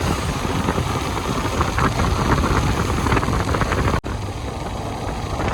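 Motorcycle engine running while riding along a road, a steady low rumble with road noise, broken by a sudden cut about four seconds in.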